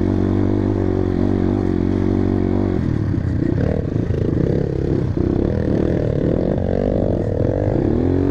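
Motorcycle engine pulling steadily for about three seconds, then revving up and down unevenly as it is ridden over a rough off-road trail, with a rising rev near the end.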